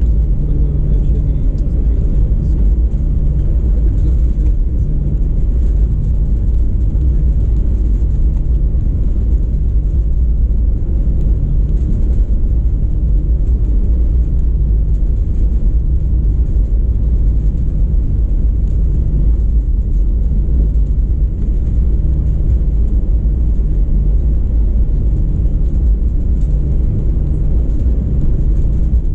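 Airbus A319 cabin noise: the steady low rumble of the jet engines and airframe heard from inside the cabin, with a regular low pulsing in the hum.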